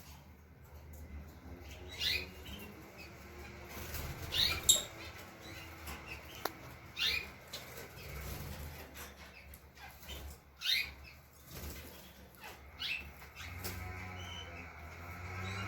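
Cage birds fluttering their wings, with short, sharp chirps every couple of seconds.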